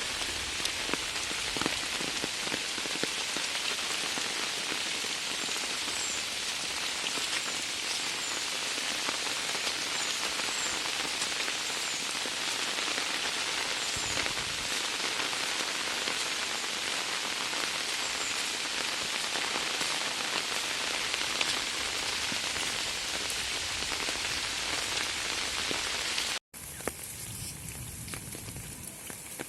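Steady monsoon rain pouring down in a dense, even hiss. About 26 seconds in it cuts off suddenly to lighter rain with scattered drops.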